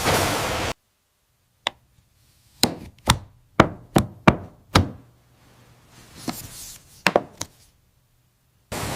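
A series of sharp knocks or strikes against a quiet background: one alone, then a quick run of about seven in two seconds, then a few more spaced out. It comes between stretches of loud steady machine noise that cut off abruptly and resume just before the end.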